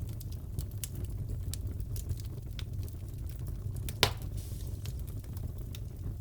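Crackling fireplace: a steady low rumble of burning logs with scattered small crackles and one louder pop about four seconds in.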